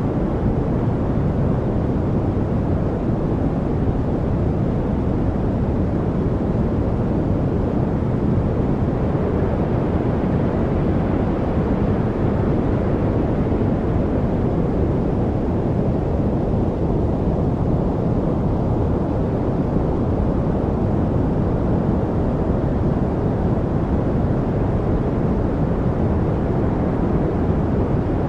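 Steady, deep, even rushing noise played as a study-aid noise track, with no birdsong, trickles or other separate sounds in it.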